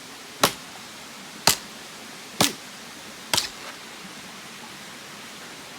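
Four sharp chopping strikes about a second apart, over a steady rush of running water.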